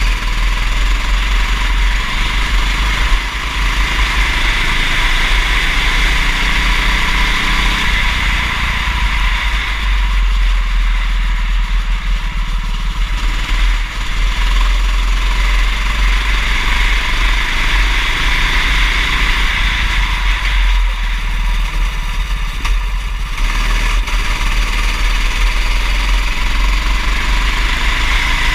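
Kart engine running at racing speed, its pitch rising and falling as it revs up and comes off the throttle. It sits under a steady hiss and a heavy low rumble on the microphone.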